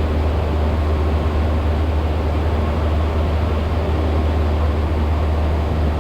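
Cessna 172's piston engine and propeller heard from inside the cabin, a steady low drone in level flight.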